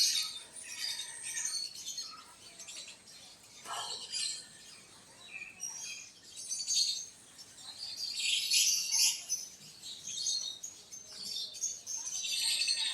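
Birds chirping in repeated bursts of quick, high chirps, with quieter gaps between them and the loudest burst a little past the middle.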